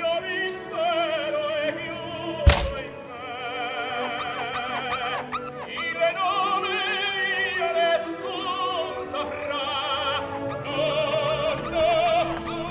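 Operatic singing with a strong vibrato over orchestral accompaniment, with one sharp thud about two and a half seconds in.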